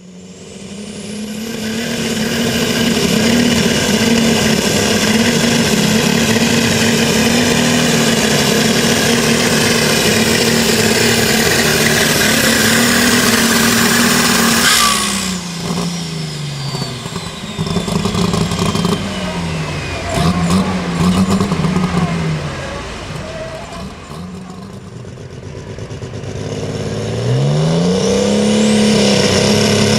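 Turbocharged super stock pulling tractor engine at full power, a steady pitched roar with a high turbo whine, for about fifteen seconds. Then the throttle drops: the whine falls away, the engine revs up and down a few times and settles low, before climbing back to full power near the end.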